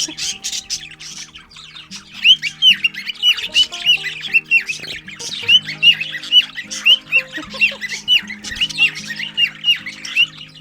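A flock of budgerigars chattering loudly in an aviary, a steady stream of rapid sharp chirps several times a second that thins briefly and picks up again about two seconds in. Background music plays underneath.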